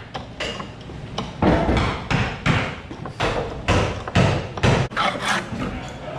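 Spring pole lathe at work: a steady run of wooden knocks, about two a second, each with a short scraping rush as the tool cuts on the downstroke.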